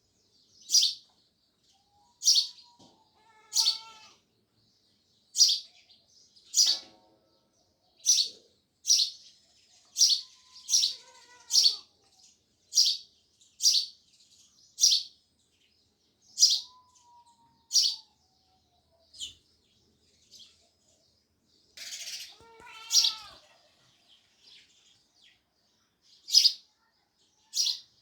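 House sparrows chirping: loud, short single chirps repeated about once a second, thinning briefly about two-thirds of the way through, then a harsher burst of chatter.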